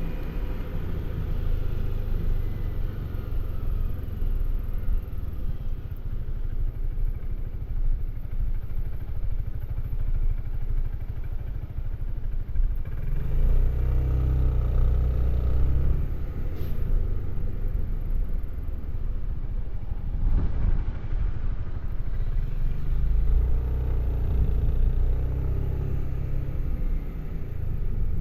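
Suzuki Burgman AN400 maxi-scooter's single-cylinder engine running on the move through its stock exhaust, a steady low drone that grows louder twice under throttle, about halfway through and again near the end.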